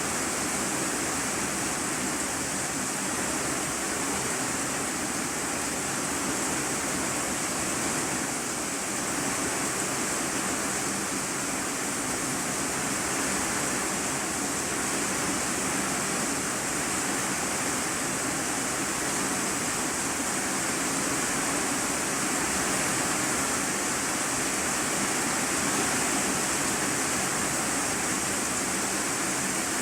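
Steady rain drumming on a corrugated iron-sheet roof, heard from inside the room beneath it as an even, unbroken hiss.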